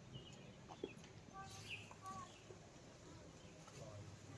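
Faint birds chirping: a scattering of short, high calls over a quiet outdoor background.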